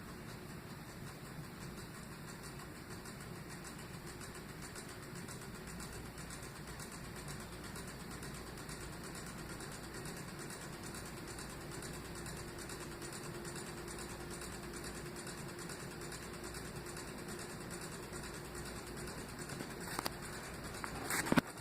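52-inch Harbor Breeze Armitage ceiling fan running with a steady motor hum, with a single click near the end.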